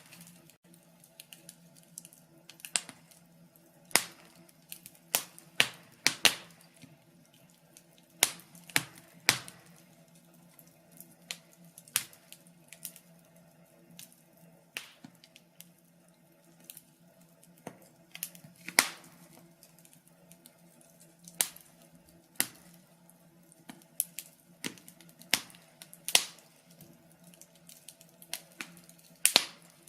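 Wood fire in a fireplace crackling, with irregular sharp pops and snaps, a few much louder than the rest, over a faint steady low hum.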